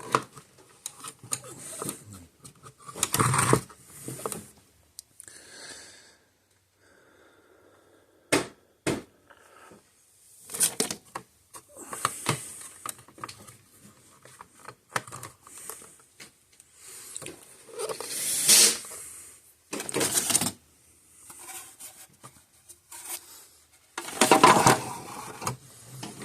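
Irregular clicks, taps and short scrapes of small tools and parts being handled on a workbench during electronics repair work, with a few louder clattering bursts.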